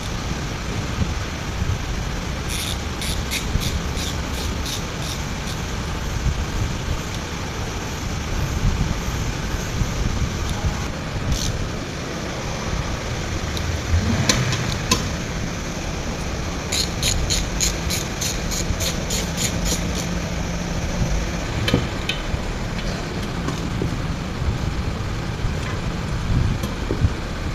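Steady low workshop rumble with several runs of sharp clicks, at times about four a second, from hand work on engine parts.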